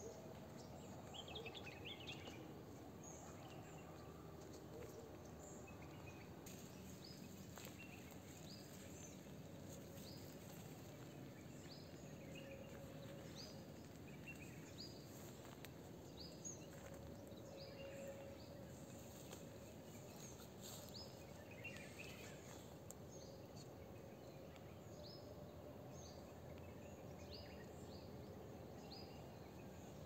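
Faint songbird calls: many short, high chirps that slide downward, repeated over and over, over a low, steady outdoor hiss.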